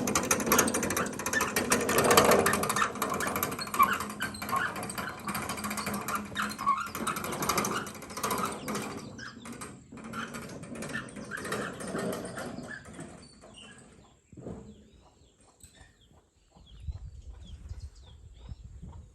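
Dense rustling and crunching clatter that fades out over the first half, then quieter outdoor sound with scattered short bird chirps.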